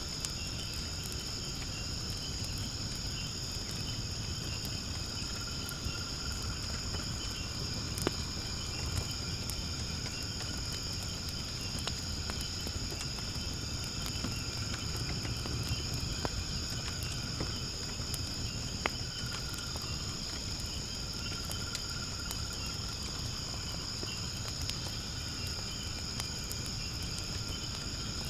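Night insects chirring in a steady high chorus over a low hiss from a wood fire burning in a fire pit, with a few sharp crackles and pops of the burning firewood.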